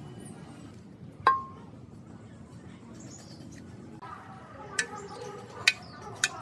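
A sharp metallic clink with a brief ringing tone about a second in, then several lighter clicks and taps in the last couple of seconds: metal parts or tools being handled and set down at a workbench.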